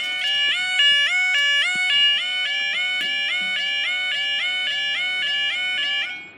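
Level crossing warning alarm sounding: an electronic two-tone warble that repeats over and over at about two to three cycles a second, with each tone gliding up into the next. It stops near the end.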